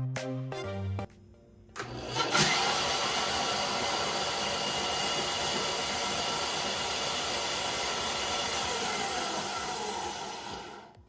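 Ryobi BS904G 9-inch benchtop band saw switched on about two seconds in, its motor and blade running with a steady whirring hiss, dying away near the end.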